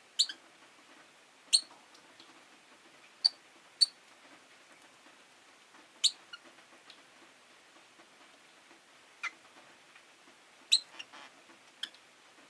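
Rosy-faced lovebirds giving short, sharp, high chirps, about eight scattered calls with gaps of a second or more between them, over a faint steady low hum.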